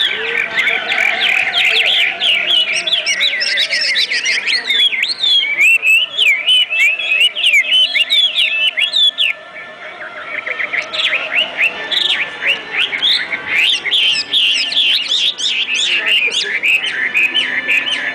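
Many small caged birds chirping, their quick calls overlapping into a dense chatter. The chirping thins out about nine seconds in, then resumes a second later.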